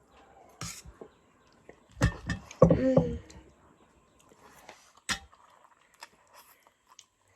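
People eating noodles: chewing and slurping, with short clicks of utensils against a bowl, and a louder burst of sound about two to three seconds in.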